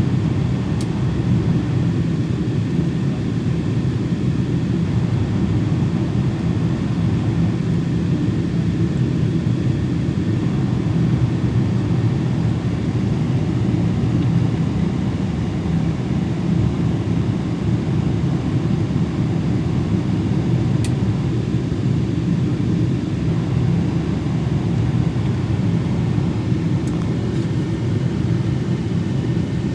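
Steady cabin rumble of a Boeing 777-200 airliner heard from a window seat: engine and airflow noise, even and unchanging, with a few faint clicks.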